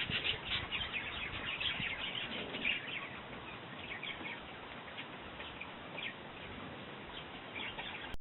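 Small garden birds chirping: a busy run of short chirps in the first few seconds, thinning to scattered chirps after.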